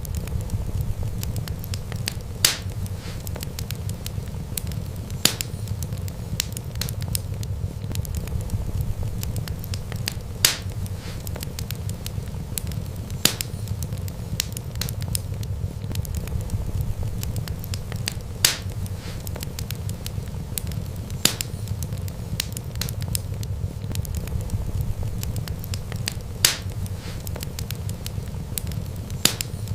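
Wood fire crackling: sharp pops every two to three seconds with smaller crackles between, over a steady low rumble of the flames.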